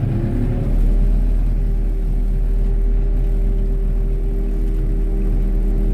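Tractor engine running steadily: a low rumble with a level hum that settles in about a second in.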